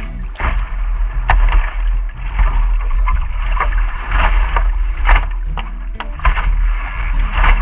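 Water splashing and rushing along a sailboat's hull, with a heavy rumble of wind buffeting the action camera's microphone.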